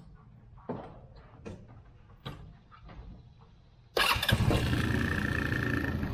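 A few separate clicks and knocks, then about four seconds in the Polaris Hammerhead R-150 UTV's small single-cylinder engine starts abruptly and runs loudly and steadily, freshly filled with oil after an oil change.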